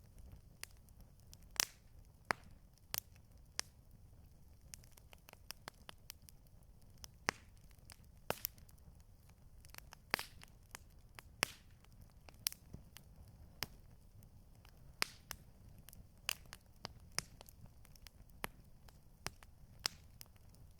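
Wood campfire crackling: irregular sharp pops and snaps, some louder than others, over a low steady rumble.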